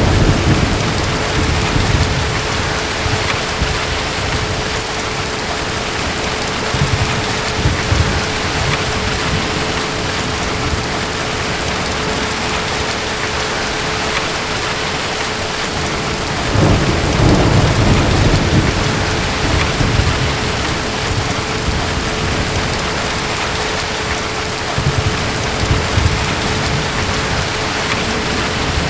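Steady heavy rain with rolls of distant thunder now and then, the longest and loudest just past halfway.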